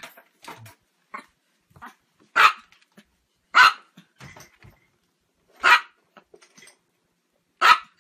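A dog barking: four single, sharp barks, a second or two apart, with fainter short sounds in between.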